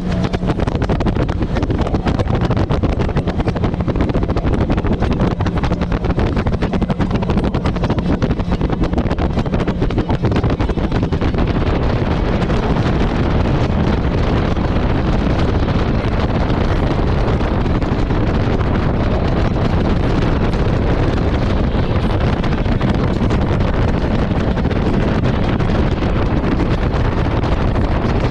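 Jet ski running at speed over the water, its engine mostly buried under heavy wind buffeting on the microphone.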